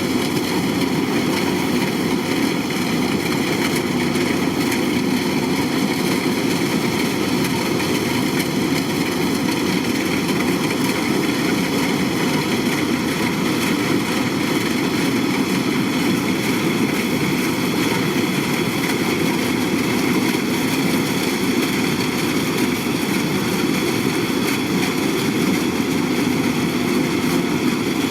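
Kubota DC-105X combine harvester's diesel engine and machinery running steadily at a constant pitch, a continuous drone with no change.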